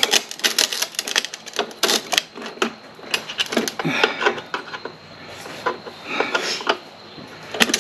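Irregular clicks and light clatter of hand tools and small parts being handled, quick and dense at first, then scattered taps.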